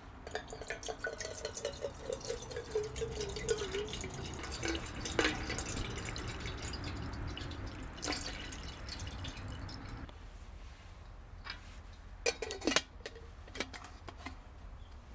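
Water being poured into a container, splashing and gurgling with a falling pitch over the first few seconds, then a few sharp clinks near the end.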